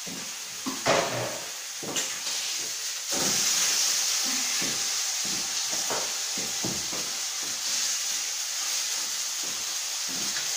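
Chicken breast sizzling in a hot frying pan. A couple of knocks come in the first seconds, then about three seconds in the sizzle jumps louder and stays steady.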